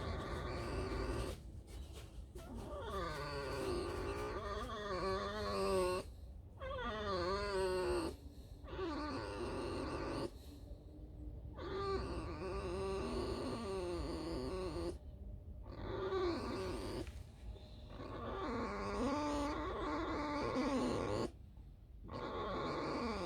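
A pet fox squeaking and creaking in long warbling calls that waver up and down in pitch, coming in a run of stretches a few seconds long with short breaks between. It is the squeaking of a relaxed fox in the mood to scratch herself.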